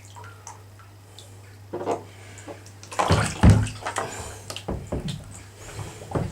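Water splashing and sloshing in irregular bursts as a capsized RC jet boat rolls upright and water drains off it, the loudest splashes about halfway through. A steady low hum underneath stops about four seconds in.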